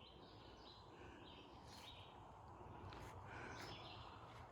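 Faint bird calls and chirps over quiet outdoor background noise.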